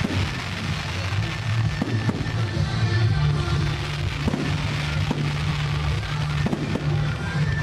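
Fireworks going off, with several sharp bangs spread through and crackle between them, over music with sustained low notes.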